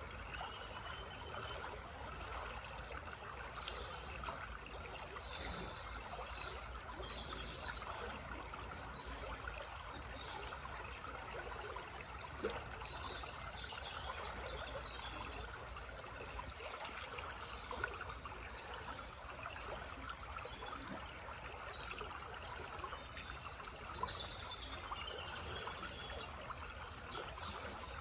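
Small forest brook running and babbling steadily over stones, with songbirds chirping and singing now and then above it.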